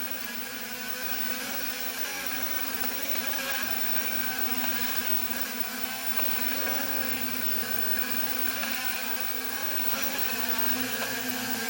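Small quadcopter drone's brushless motors and propellers whirring steadily as it hovers and turns, the pitch of the motors wavering slightly. One of its rear propellers is cracked.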